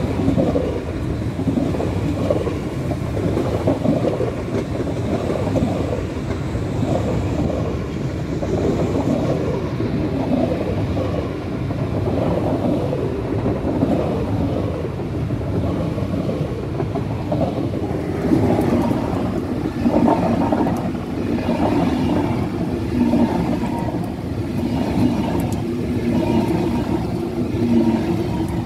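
ICE high-speed train passing close by, a steady rumble of wheels on the rails as the carriages roll past. A low steady hum comes up in the last third.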